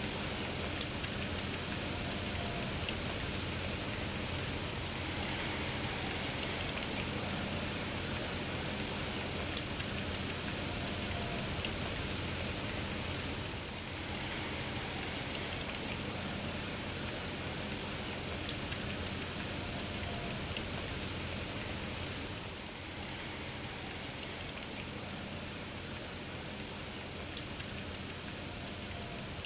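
Steady rain falling and pattering, with four sharp drop ticks spaced about nine seconds apart.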